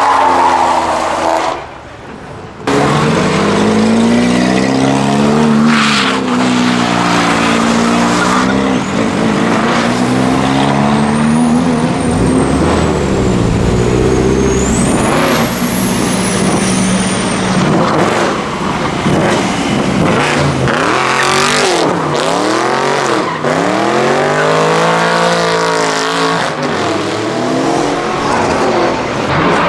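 Car engines revving up and down as cars drift and do donuts, with tyres squealing and skidding. The sound drops out briefly near the start, and a thin high whistle glides up and down through the middle.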